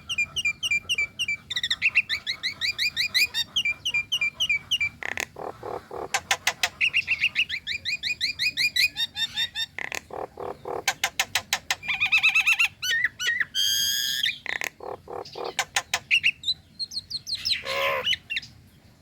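Female Nias hill myna calling: fast runs of short, repeated chattering notes, several per second, broken by a couple of longer, harsh squawking calls later on.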